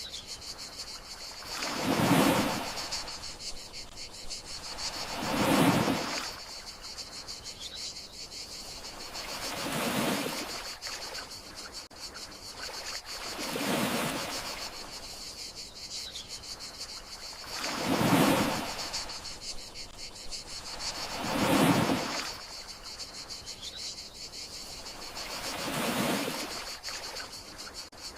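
Gentle sea waves washing onto the shore about every four seconds, each swelling and fading, over a steady high chirring of crickets.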